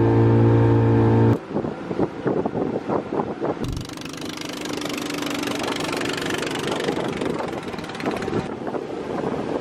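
A loud, steady droning tone for about the first second and a half, cutting off suddenly. An engine then runs with wind on the microphone, a steady rushing hiss from about three and a half seconds in.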